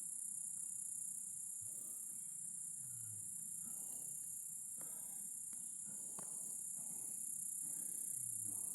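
Insects, crickets or cicadas, keeping up a continuous shrill, high-pitched chorus, with faint low rustles and clicks underneath.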